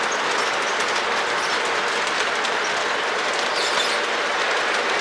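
Model trains running on a three-rail O-gauge layout: a steady rolling rattle of wheels on track, with a few faint high squeaks past the middle. The squeaking is a built-in sound effect of the Santa Fe U28CG engine's sound system.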